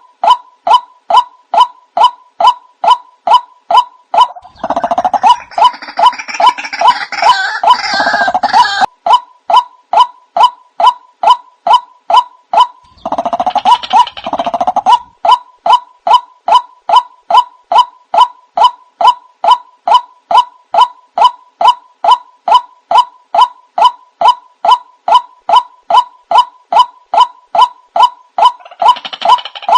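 White-breasted waterhen (ruak-ruak) calls played as a bird lure: a steady run of short, repeated notes, about two a second. About five seconds in, again around thirteen seconds, and near the end, louder and harsher bouts of calling rise over the repeated notes.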